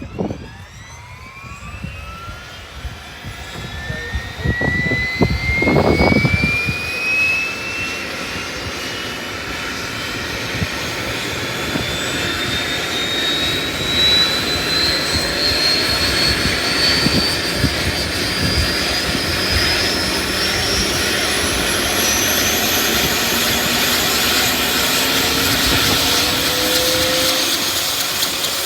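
Airbus H125 helicopter's turboshaft engine starting up: a high whine that climbs steadily in pitch and grows louder as the turbine spools up, with a few low thumps about five seconds in.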